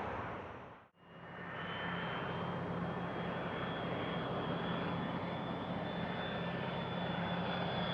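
Business jet's turbofan engines running steadily, with a low hum under a high whine that rises slowly in pitch. The sound fades in after a brief dip about a second in.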